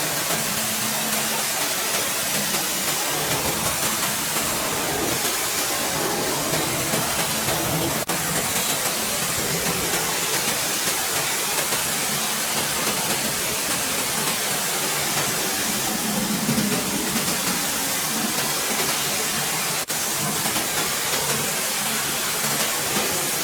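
Steady hissing jet of car-cleaning equipment running without a break, with a faint low hum underneath. It drops out for an instant twice, about eight seconds in and again near twenty seconds.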